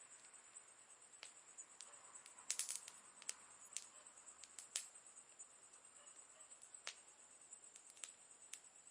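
Campfire crackling faintly: scattered sharp pops and snaps from the burning wood, with a quick run of pops about two and a half seconds in.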